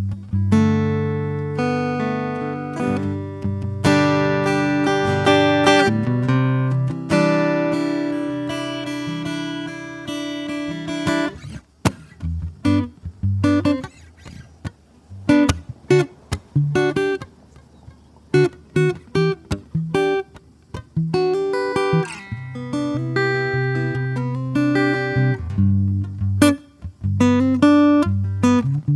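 Solo acoustic guitar played slowly: ringing chords for the first half, then sparse single plucked notes, with fuller chords coming back near the end.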